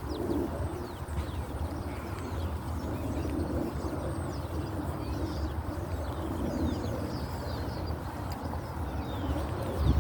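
Wind buffeting the microphone in a steady low rumble, with small birds chirping over it in short high notes. A brief thump near the end.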